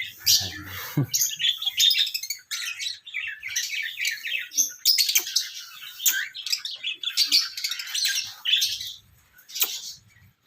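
Pet parrot chattering in runs of rapid, high-pitched chirps with short pauses between bursts, tailing off near the end.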